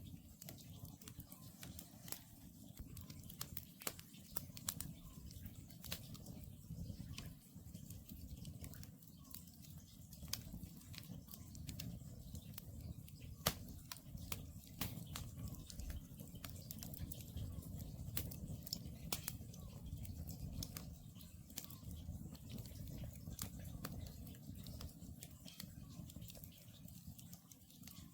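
Wood campfire burning, crackling with many small irregular pops over a low steady rumble, with one louder pop about halfway through.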